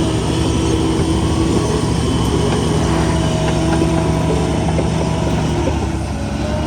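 Heavy diesel earthmoving machinery running steadily, a deep engine drone with a steady whine over it.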